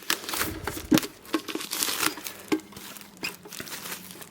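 Plastic wrapping crinkling as trading cards and their packaging are handled: irregular rustles and crackles, the sharpest about a second in.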